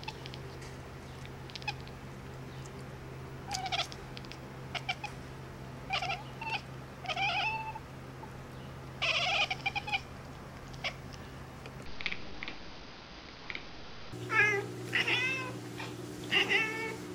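Domestic cat meowing in a string of short, separate calls. After a cut, another cat makes a quicker run of rising-and-falling calls.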